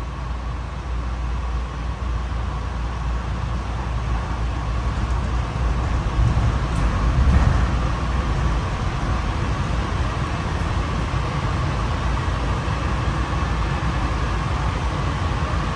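Inside a Honolulu Skyline rail car running on the elevated guideway: a steady rumble of wheels and running gear with a constant whine over it. The train pulls into a station near the end.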